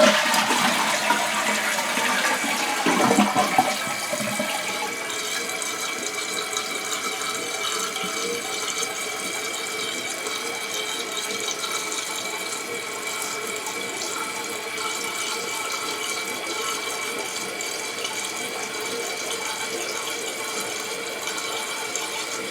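A toilet is flushed: water rushes out of the tank for about four seconds. Then the new Fluidmaster fill valve refills the tank with a steady hiss and a thin, steady whistle.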